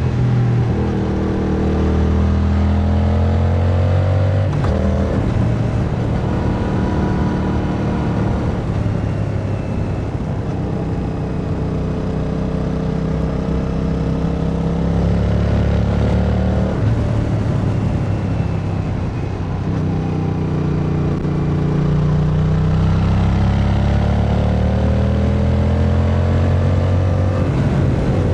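Yamaha MT-07's 689 cc parallel-twin engine under hard riding, its note climbing and falling as the throttle opens and closes. The pitch breaks suddenly at gear changes about five, seventeen and twenty seconds in.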